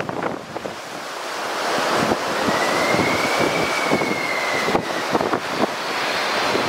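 Boeing 747-400 freighter's four jet engines approaching on landing, a roar growing steadily louder with a high whine that arches slightly in pitch through the middle. Strong wind buffets the microphone, gustiest at the start.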